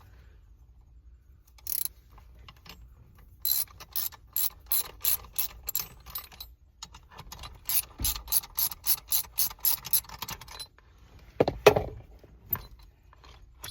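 A socket ratchet wrench clicking in two quick runs of strokes, about two to four clicks a second, with a short pause between them. A single louder clunk follows near the end.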